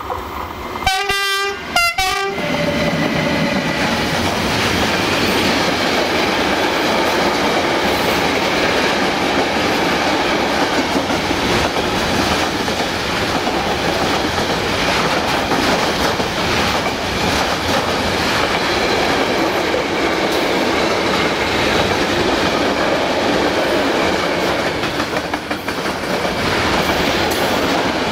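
Freight train sounding its horn in two short blasts about a second in, then the wagons rolling steadily past with a rhythmic clickety-clack of wheels over rail joints.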